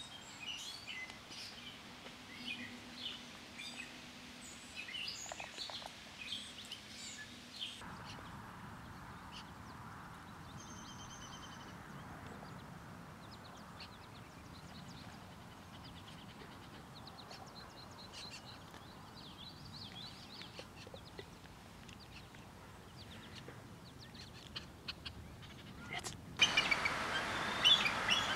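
Wild birds chirping and calling in short high notes and trills over a steady background hiss. The background changes abruptly about a third of the way in, and near the end it jumps to much louder, denser chirping.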